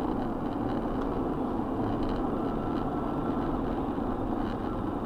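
Steady engine and road noise of a car driving, picked up by a dashboard camera inside the cabin.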